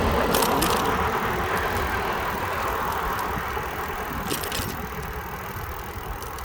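Wind rushing over the microphone and road noise from riding a bicycle on a street, with two short rattles; the noise slowly fades.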